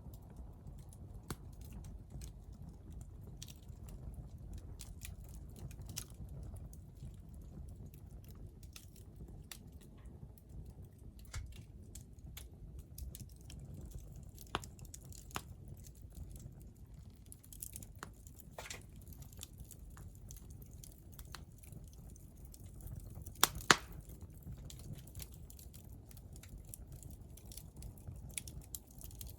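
A hardwood fire crackling in a small titanium fire pit, with scattered sharp pops over a low steady rumble of flame. Two louder pops come close together about three-quarters of the way through.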